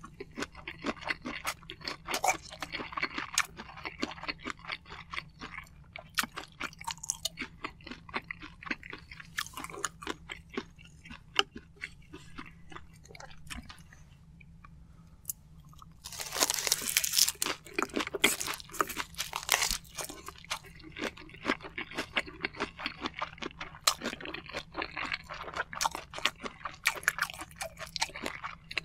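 Close-miked chewing of soy-sauce-marinated shrimp and rice: a steady run of quick mouth clicks and smacks. It is loudest and densest for a few seconds a little past the middle, after a fresh spoonful goes in.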